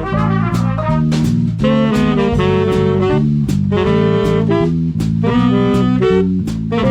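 Swing band playing: saxophones and brass in harmony over a steady drum beat.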